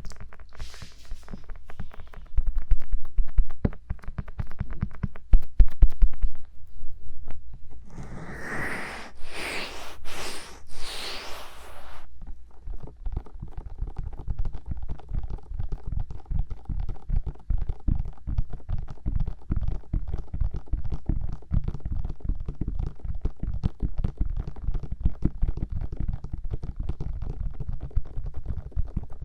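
Fingertips tapping rapidly on the silicone ears of a 3Dio binaural microphone, giving a dense run of muffled, bassy thumps several times a second. About eight seconds in, a few seconds of louder hissing rubbing on the mic ears cut in, then the fast tapping resumes.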